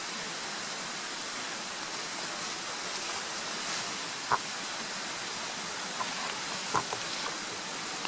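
Newly lit campfire of birch bark and fatwood burning: a few sharp crackles over a steady rushing hiss.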